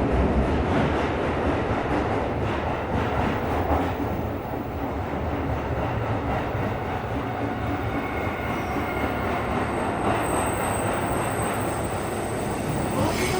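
Tokyo Metro 17000 series subway train running through a tunnel, heard from inside the car, with a steady rumble of wheels and running gear. From about eight seconds in, a thin high wheel squeal joins it.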